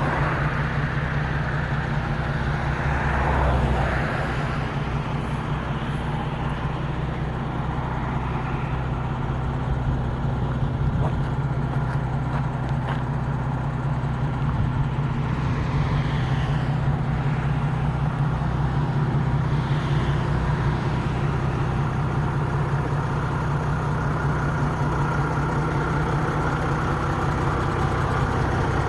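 Diesel engine of a 1976 MAN 11.136 bonneted 4x4 truck running steadily at an even low pitch, swelling a little about three seconds in.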